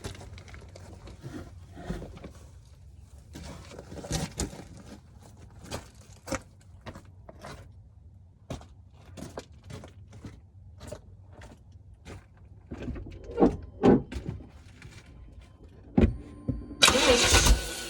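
Scattered light clicks and knocks, then a thump about 16 seconds in. Near the end, a Chevrolet Tahoe's engine starts to crank loudly.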